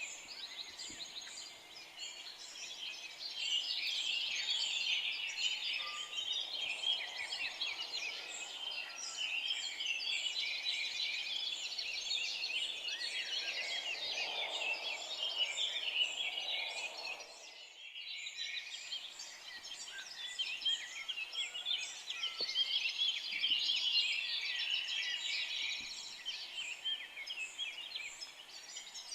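A dense chorus of many forest songbirds singing at once, overlapping high chirps and trills. About two-thirds of the way through, the sound briefly drops out and then resumes.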